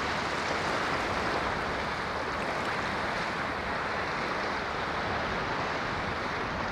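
Ocean surf washing steadily, an even rush of water with no single wave standing out.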